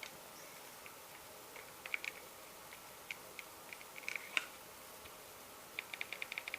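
Faint clicks and taps from a mobile phone being handled and its buttons pressed, scattered at first, then a quick run of clicks near the end. The phone does not turn on.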